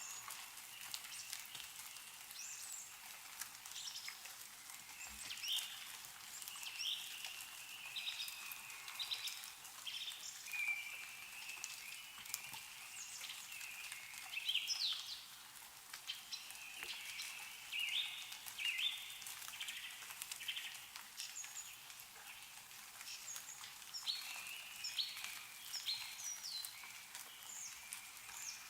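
Songbirds chirping and calling in short repeated phrases, over scattered drips of meltwater falling from snow-laden trees.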